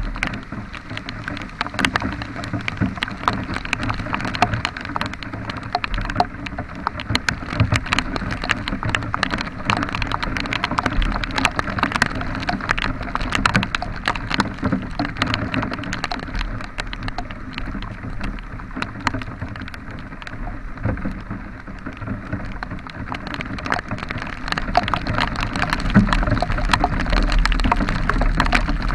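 Rain falling, with many drops striking close to the microphone as sharp clicks over a steady low rumble; it grows louder near the end.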